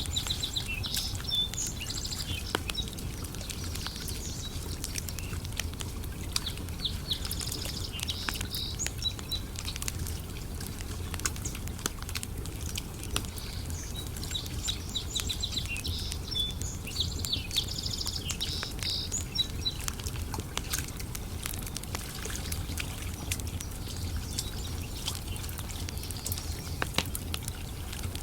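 Wood campfire crackling with frequent sharp pops, over a low steady rumble. Small birds sing in short chirping phrases several times over it: near the start, around eight seconds in, and again from about thirteen to nineteen seconds.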